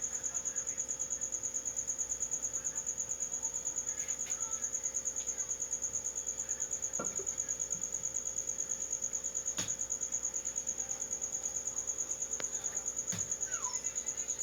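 A cricket trilling steadily: one high, even, fast-pulsing tone. A few faint clicks come about halfway through and again near the end.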